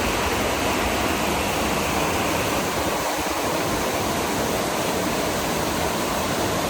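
Steady, even rush of heavily falling water.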